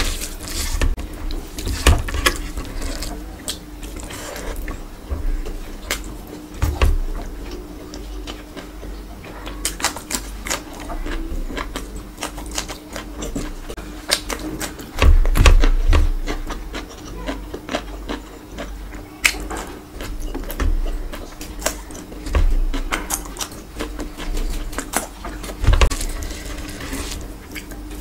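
Close-miked eating: chewing and mouth clicks while a hand mixes and scoops rice with curry, with heavier crunching of a cucumber slice about halfway through. A faint steady hum runs underneath.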